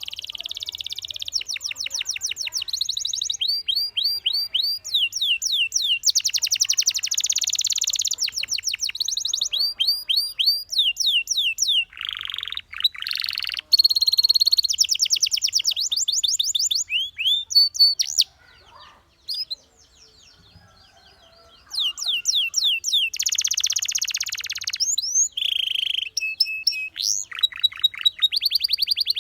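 Domestic canary singing: long runs of fast trills, each a quick series of repeated rising notes, changing from one trill to the next. There is a pause of about three seconds just past the middle, then the song starts again.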